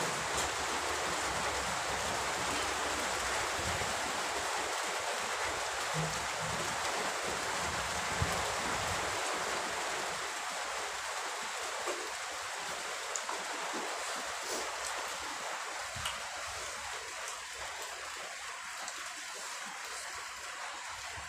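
Rain falling steadily, an even hiss that eases slightly after about ten seconds, with a few faint clicks from eating.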